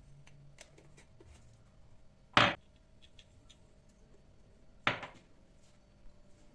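Kitchen handling sounds: two sharp knocks about two and a half seconds apart, with a few faint clicks between them, over a faint steady hum.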